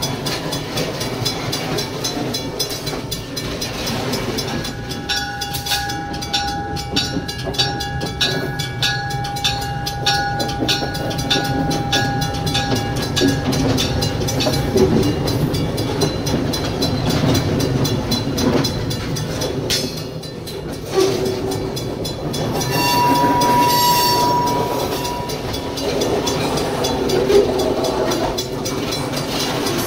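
Slow freight train of boxcars and a diesel locomotive rolling over a road grade crossing, its wheels clacking and rumbling on the rails. A steady tone sounds for several seconds a few seconds in, and another briefly near the end.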